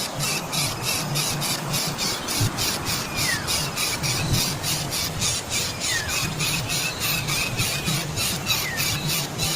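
Bird squealing: short falling calls about every two to three seconds, over a steady fast pulsing chirr of about four to five pulses a second.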